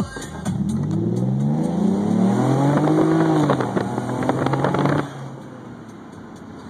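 Lexus IS350's 3.5-litre V6 through a Tanabe Medallion Touring exhaust with the resonator removed, heard from inside the cabin under hard acceleration. The engine note climbs steadily in pitch for about two and a half seconds, holds, then drops away suddenly about five seconds in, leaving quiet road noise.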